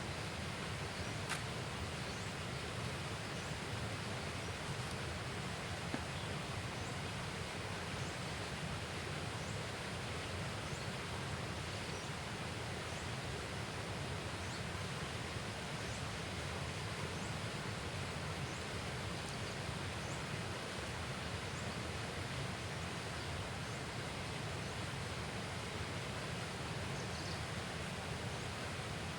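Steady outdoor ambient noise with faint, short high-pitched chirps recurring every second or two.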